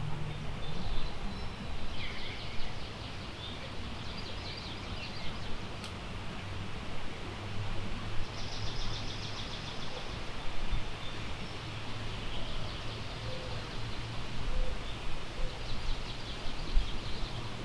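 Several songbirds singing in the woods, in short phrases and rapid trills. A fast high trill about eight seconds in is the most prominent. A steady low rumble runs underneath.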